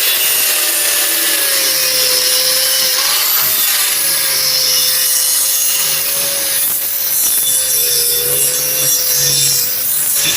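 Angle grinder grinding the steel edge of a hydraulic log-splitter blade: a steady loud hiss of grinding over the motor's whine, which wavers slightly in pitch as the disc is pressed on.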